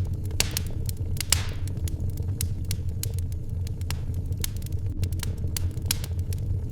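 Wood fire in a fireplace crackling: irregular sharp pops over a steady low rumble, with one louder pop a little over a second in, trailing a brief hiss.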